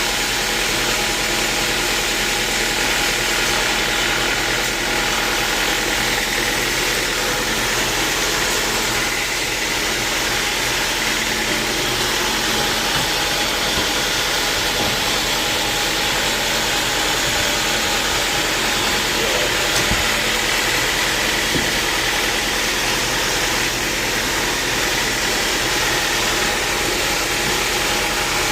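Sawmill machinery running steadily: a loud, constant mechanical noise with a steady hum that does not change.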